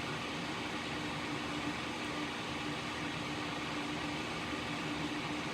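Steady whir of a running fan, an even hiss with a low hum beneath it that does not change.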